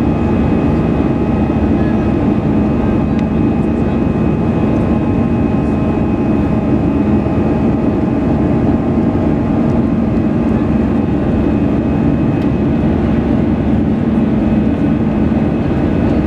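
Airbus A320's CFM56 jet engines running at steady high power, heard inside the passenger cabin as a dense, even rumble with steady humming tones.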